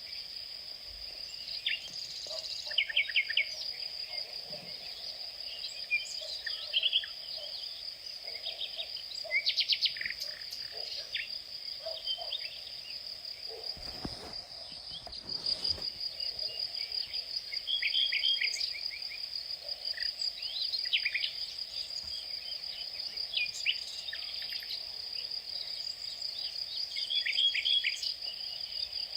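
Outdoor ambience with insects trilling in one continuous high, steady tone and birds giving short, quick chirps every few seconds. A brief low rumble comes about halfway through.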